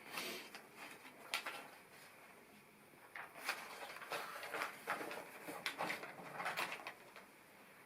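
Plastic LEGO pieces clicking and rattling as they are handled and pressed together: a cluster of sharp clicks at the start, one about a second and a half in, then a run of clicks and rustles from about three seconds in until near the end.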